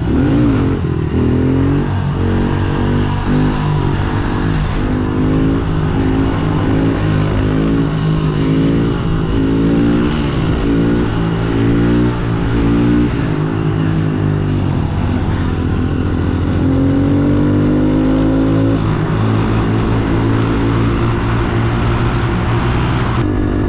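Pit bike engine revving up and dropping back again and again while riding, about once a second, with one longer pull about two-thirds of the way through.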